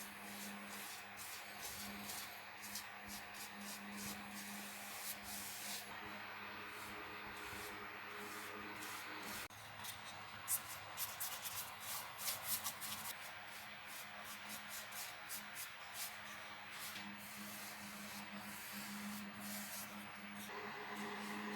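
Hand abrasive work on a part during a table saw restoration: quiet, irregular scratching and rubbing strokes, busiest about halfway through, over a steady low hum.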